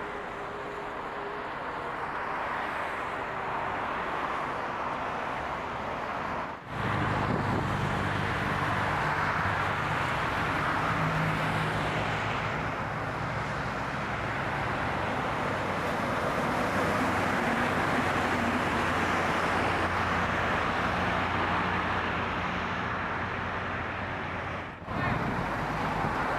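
Roadside traffic noise with a vehicle engine running steadily underneath. The sound breaks off abruptly twice, about six and a half seconds in and near the end.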